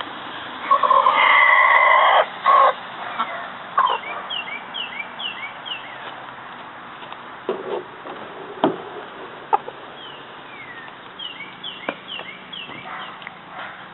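Rooster calling his hens to scratch grain: a long, loud call about a second in, then shorter clucking calls. Two quick runs of short, high, falling chirps follow, with a few sharp taps in between.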